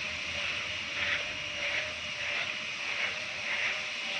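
Steady hiss with soft swells every half second or so and a faint steady tone underneath.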